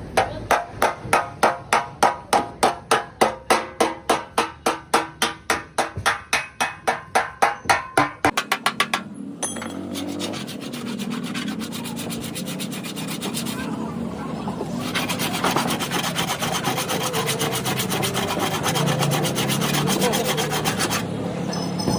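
Abrasive rubbing on a car body panel during dent repair: quick, even rasping strokes, about three or four a second, then after about eight seconds a steadier, continuous rubbing.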